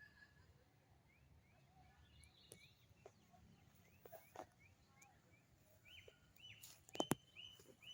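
A bird calling over and over with short rising chirps, about two a second, then louder hooked calls near the end, over faint background noise. A few sharp clicks break in, the loudest pair about seven seconds in.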